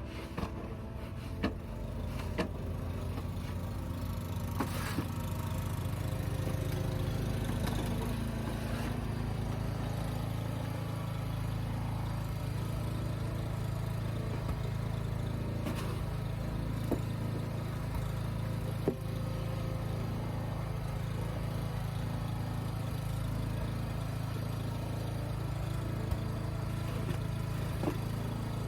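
An engine running steadily at idle, its low hum settling to an even pitch after several seconds, with a few scattered clicks and knocks.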